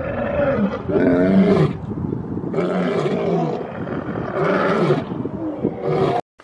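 Lion roaring: a series of loud, deep roars about every one to two seconds, cutting off suddenly near the end.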